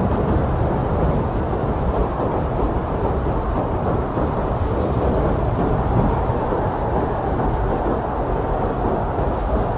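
Strong blizzard wind blowing steadily, a deep rumbling rush with no gusts standing out.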